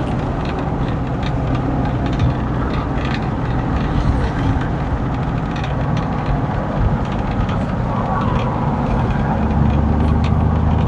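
Pickup truck V8 with a freshly installed aftermarket cam, heard running from inside the cab with road noise while driving. A steadier, stronger low engine note comes in near the end.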